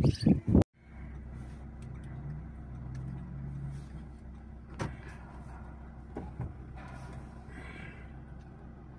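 A car's engine idling, heard from inside the cabin: a steady low hum with a few faint clicks. A louder sound in the first second cuts off abruptly.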